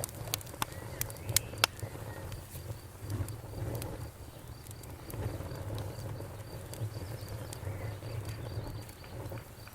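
Bonfire crackling over a low rumble of flames, with a cluster of sharp pops in the first couple of seconds. Crickets chirp in a steady, fast high pulse behind the fire.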